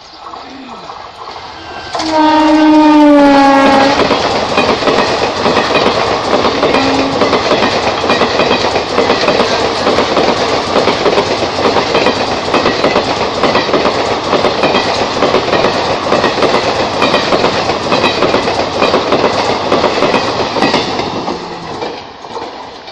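Electric-hauled passenger express train passing close by. Its locomotive horn sounds for about two seconds, dropping slightly in pitch as it goes by, with a short second toot a few seconds later. The coaches then rumble and clatter over the rail joints for about fifteen seconds before fading near the end.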